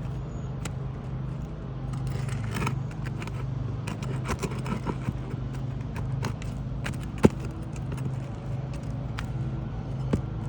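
Roofing tools scraping and clicking against asphalt shingles and nails while old shingles are being pried loose, with one sharp knock about seven seconds in and a smaller one near the end.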